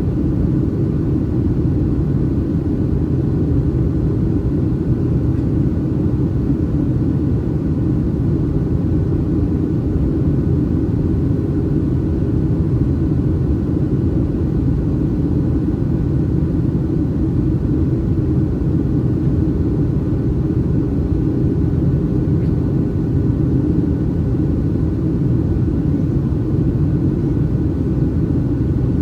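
Steady cabin roar of a Boeing 737-800 in flight, its CFM56-7B jet engines and the airflow over the fuselage heard from a window seat over the wing. An even, low-pitched rush with a faint steady hum, unchanging throughout.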